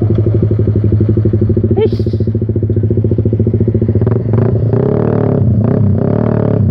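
A Suzuki Satria FU Fi's 150 cc single-cylinder exhaust runs through a short Pro Liner aftermarket muffler with its dB killer removed. The engine is held at low revs and gives a rapid, uneven sputter ("berebet"), the roughness this muffler gives below about 3000 rpm. The pitch wavers from about four seconds in.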